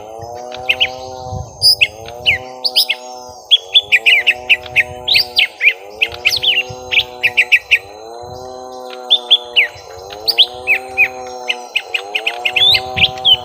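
Young lesser green leafbirds (cucak ijo mini) giving agitated fighting calls: rapid runs of sharp, high chirps and short trills, in quick volleys with brief pauses. A lower, arching tone repeats about every second and a half beneath them.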